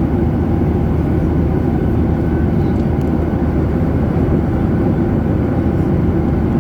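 Jet airliner cabin noise in flight: a steady, loud, low rumble of the engines and the air rushing past the fuselage.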